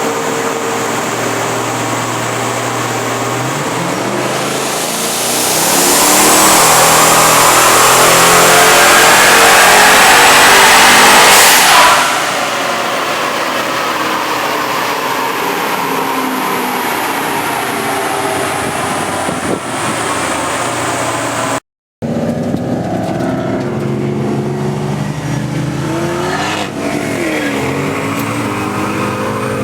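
Twin-turbocharged Ford BA XR8 5.4-litre V8 revving hard. Its pitch and loudness climb over a couple of seconds to a loud full-throttle stretch, which cuts off sharply about twelve seconds in. It then runs at a lower level, with another brief burst of revs later on.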